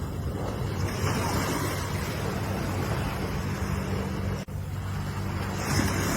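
Ocean surf: a continuous rushing of waves that swells about a second in and again near the end, over a steady low rumble. The sound cuts out for an instant about four and a half seconds in.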